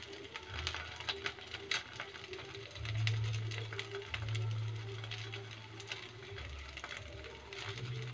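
Sardine-and-cabbage patties frying in shallow oil, crackling, with short clicks of a metal spoon pressing them flat against the wok. Underneath runs the bass of music from neighbouring houses, its notes changing about once a second.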